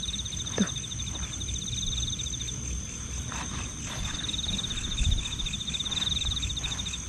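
Night insects: crickets trilling in fast-pulsed bouts over a steady high whine, one bout in the first couple of seconds and another from about four seconds in. There is a dull thump about five seconds in.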